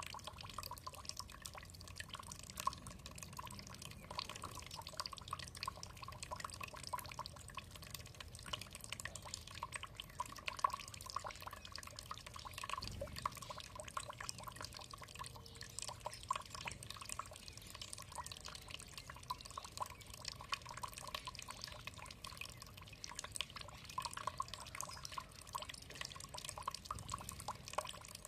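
Water dripping and trickling continuously, a dense irregular patter of small drips.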